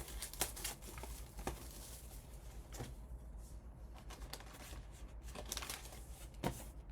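Paper or plastic wrapping tearing and crinkling, with light clicks and rustles of handling, as a sealed trading-card box is opened.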